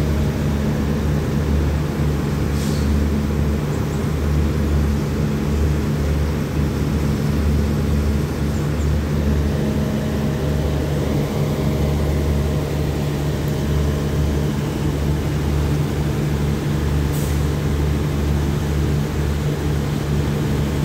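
Steady low diesel hum of an express passenger train standing at a station platform, several fixed low tones running without change. A couple of faint clicks come through it, about two and a half seconds in and again near the end.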